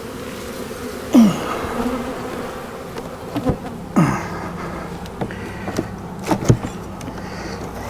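Honeybees buzzing steadily around an open hive. Two louder buzzes drop in pitch as bees pass close, about a second in and about four seconds in. A few sharp knocks come in between.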